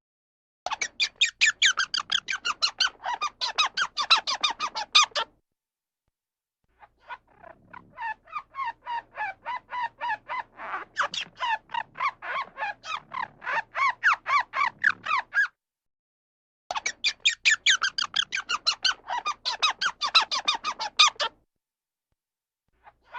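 A bird's rapid chattering call, about nine short squawking notes a second, in three long bouts with pauses between them.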